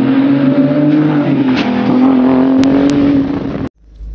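Car engine running at high, nearly steady revs, its pitch dipping slightly about a second in, then cutting off abruptly near the end. A low steady hum follows it.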